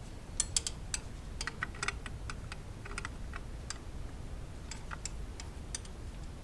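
Irregular light clicks and clinks of hand tools and small parts being handled, in two bunches separated by a short lull.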